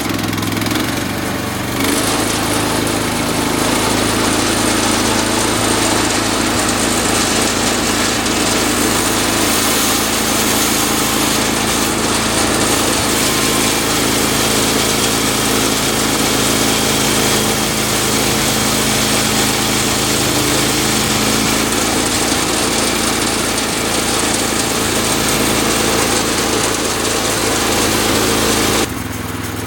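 Woodland Mills HM130 Max portable sawmill's gas engine running under load as its band blade cuts through a cedar log: a steady engine drone with the hiss of the blade in the wood. It builds up about two seconds in and cuts off suddenly near the end.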